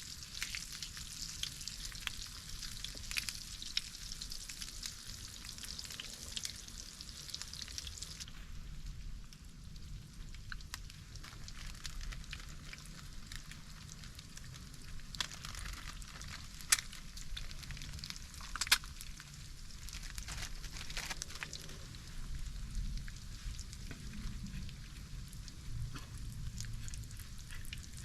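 Food frying over campfire coals: a steady sizzle, strong for the first several seconds and softer after that, with scattered sharp pops.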